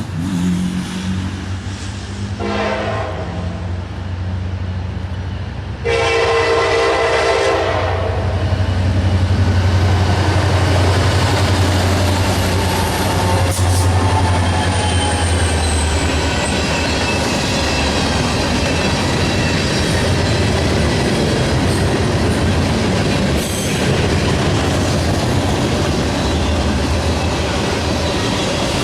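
Freight train's diesel locomotive horn sounding a short blast about two and a half seconds in and a longer blast around six seconds, as the train approaches the grade crossing. Then the locomotive's diesel engine runs loudly past, with the steady rumble of the train's wheels rolling by.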